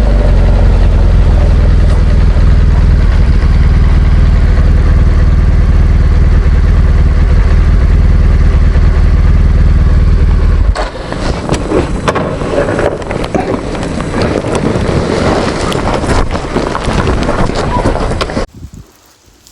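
Motorcycle ride heard from a helmet camera: the BMW R1200GS Adventure's boxer twin running under a heavy, steady low wind rumble. About eleven seconds in, the low rumble falls away, leaving a rougher noise with scattered clicks, and the sound cuts off sharply near the end.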